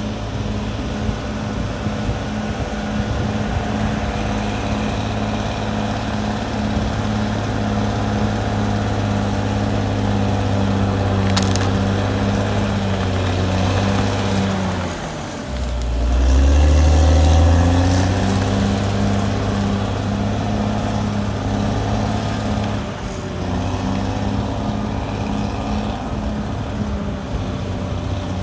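Caterpillar D6R XL bulldozer's diesel engine running steadily. About halfway through, the engine pitch sags and then climbs back, running louder for a couple of seconds before settling again.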